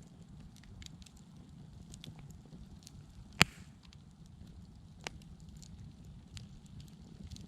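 Fire crackling, with scattered small ticks and snaps, one loud sharp pop about three and a half seconds in and a smaller pop a couple of seconds later, over a low steady rumble.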